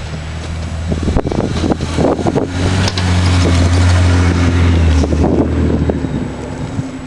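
A car engine working under load while plowing snow. It pulls harder and louder for a couple of seconds in the middle, then eases off, with scattered knocks and scrapes over it.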